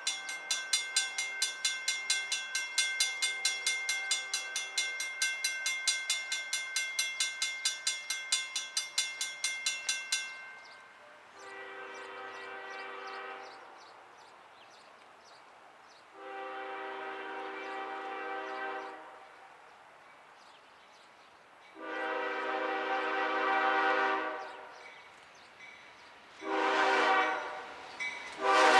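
A grade-crossing bell ringing fast and evenly, about four strikes a second, stops about ten seconds in. A diesel freight locomotive's multi-note air horn then sounds the crossing signal: three long blasts, a short one, and a final long blast starting at the end.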